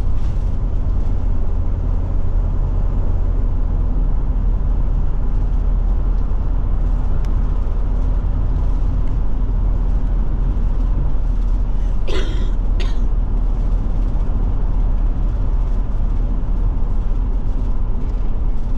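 Forest River Forester motorhome driving on the road: a steady low engine and road drone, with two short sharp noises about twelve seconds in.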